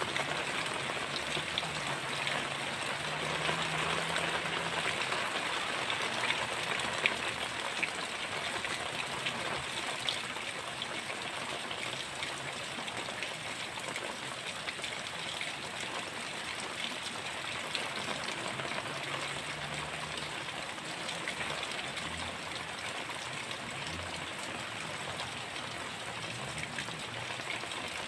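Heavy rain falling steadily, with many drops ticking close by and one sharper drop about seven seconds in.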